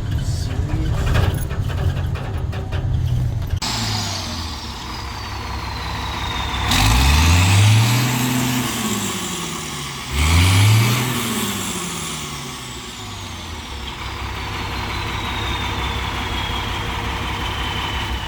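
Straight-piped Cummins C8.3 diesel in a school bus running, then revving up and back down twice, about 7 and 10 seconds in, with a high whistle that climbs with each rev and fades slowly.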